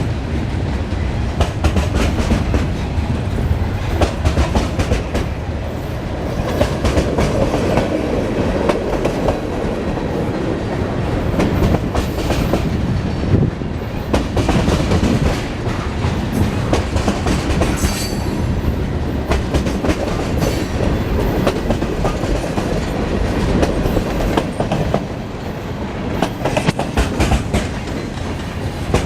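A train rolling past, its wheels clicking steadily over the rail joints.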